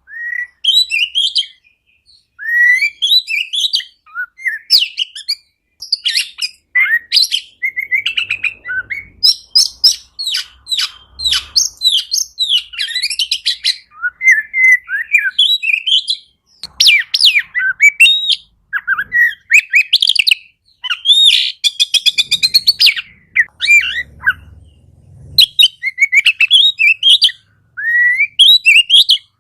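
Oriental magpie-robin (kacer) singing vigorously: a long run of varied whistled phrases, sliding notes, quick trills and fast chattering note series, broken by brief pauses between phrases.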